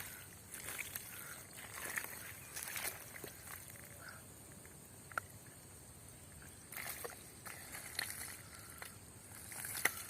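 Faint water sloshing and splashing, uneven, with scattered small clicks and knocks.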